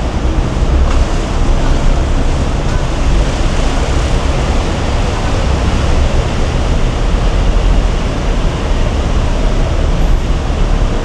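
Loud steady roar of a busy road's traffic, an even noise with a heavy low rumble that wavers throughout.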